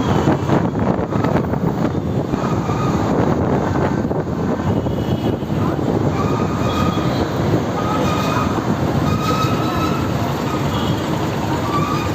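Steady rushing wind and road noise from riding a motorbike through city traffic, with short high-pitched tones now and then from about three seconds in.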